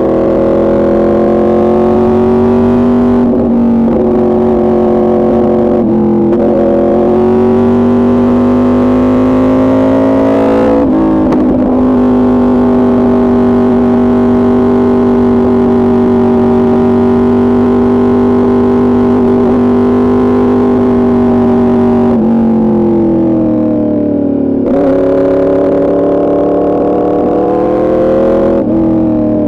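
Yamaha R1's crossplane inline-four running through an Arrow Pro Racing exhaust under way, holding a steady note for long stretches. Its pitch dips and climbs several times as the throttle and gears change.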